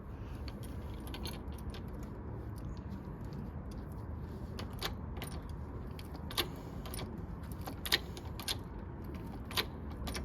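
Irregular metallic clicks and clinks of hand tools on steel while a gear puller is worked against a generator plate, over a steady low background noise. The louder clicks fall about six, eight and nine and a half seconds in.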